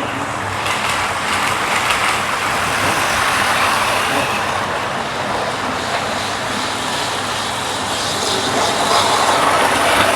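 Model trains running round the layout: the electric motors whirring and the wheels rumbling steadily along the track.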